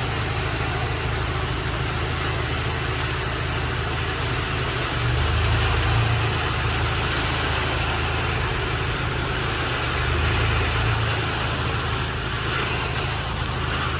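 A vehicle engine idling steadily, with a low hum that swells slightly twice, about a third of the way in and again about three-quarters through.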